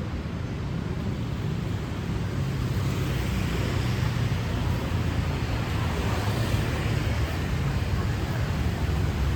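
City street traffic: a steady rumble of passing vehicles, growing a little louder about three seconds in.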